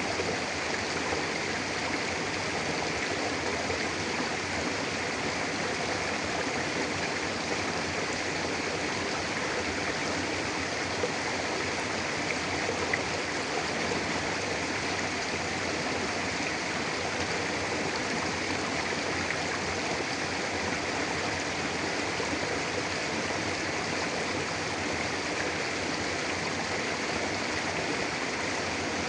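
Mountain river flowing steadily over rocks, a continuous rushing and babbling of water.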